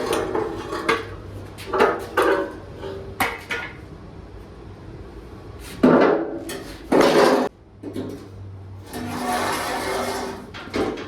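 A series of irregular knocks and clanks from tools and metal being worked, with a longer noisy stretch of about a second and a half near the end.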